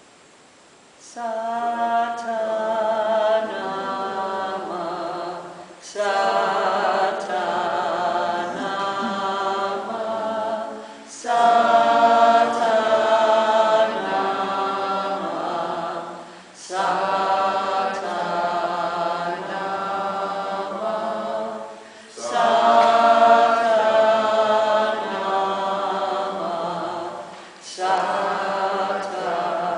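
Group of voices chanting unaccompanied in repeated phrases of about five seconds each, with a short break for breath between phrases. It starts about a second in.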